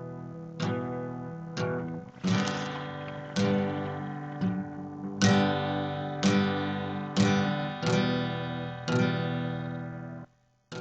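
Acoustic guitar music: chords strummed about once a second, each left to ring and fade.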